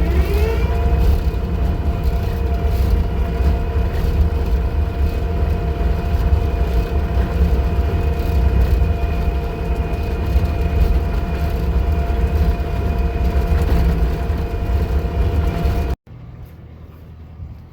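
An engine starting up: its pitch rises in the first second as it speeds up, then it runs at a steady speed, with a deep rumble and a steady whine above it. The sound cuts off suddenly near the end.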